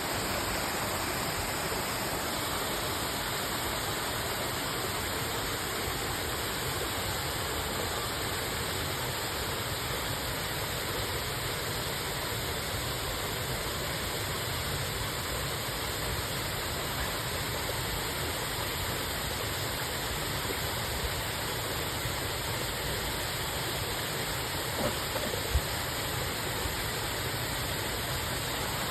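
Waterfall: a steady rush of falling water, with a couple of faint ticks about 25 seconds in.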